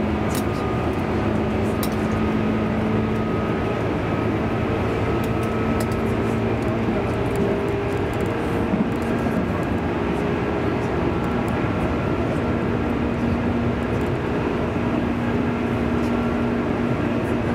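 Cabin noise inside a JR East 205-series electric commuter train running at speed: a steady rumble of wheels on the rails with a constant low hum from the running gear.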